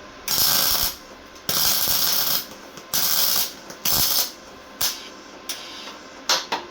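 Lincoln MIG welder tacking a sheet-metal patch panel into a car body: a series of crackling arc bursts, each starting and stopping abruptly, the first few under a second long and the last ones short and close together near the end.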